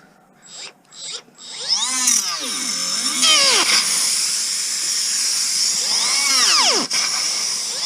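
A few clicks, then a Milwaukee M12 cordless cutter's motor whines loudly from about a second and a half in, its pitch sagging and recovering over and over as the blade bites. The tool bogs under the load: the owner finds it has no power for the cut.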